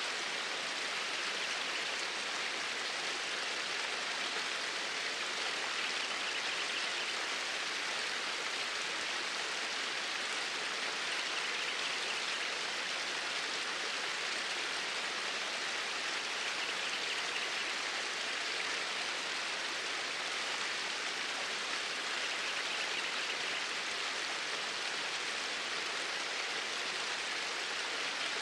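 Flowing stream water: a steady, even rush with no breaks.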